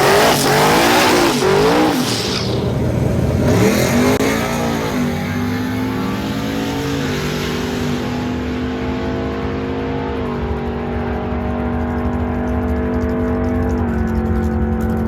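GMC Denali pickup truck's engine making a drag-strip test pass: revved hard, its pitch sweeping up and down for the first few seconds, then a steady drone that steps in pitch a few times as it shifts gears down the track.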